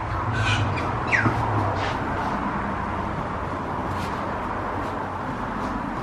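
Steady outdoor background noise with a short, falling bird call about a second in.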